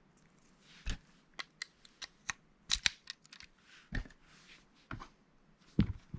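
Plastic Lego pieces being handled and pressed together: irregular sharp clicks and taps, about a dozen, with a brief cluster a little under three seconds in and a few soft rustles between them.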